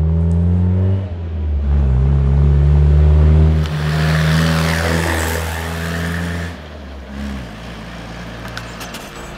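Land Rover Series 1 engine pulling hard up through the revs, with a short break about a second in like a gear change, then the vehicle driving close past with a rush of tyre and wind noise, its engine note falling and fading as it moves away.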